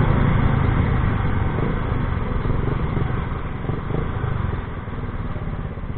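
A vehicle engine running through a loud exhaust pipe: a rapid, low pulsing that gradually gets quieter.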